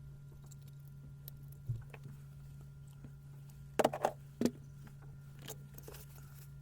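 Light clicks and knocks of parts being handled during a power-tool strip-down, with a cluster of them about four seconds in, over a steady low hum.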